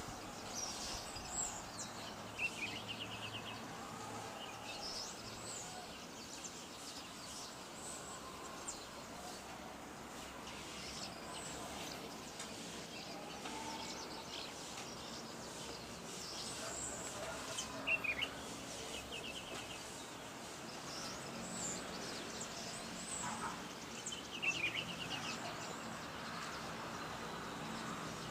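Several birds chirping and calling over a steady outdoor background noise, with a short rapid trill heard three times.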